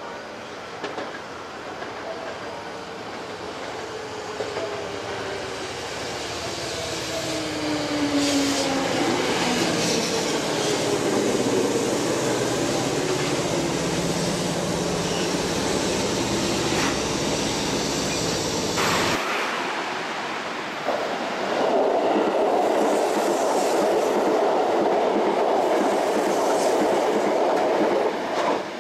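Sanyo Electric Railway 3000-series electric train pulling in, its motor whine falling in pitch as it slows, with wheels clattering over rail joints and the rumble of the cars growing louder. After a sudden cut about 19 s in, another train runs along the platform.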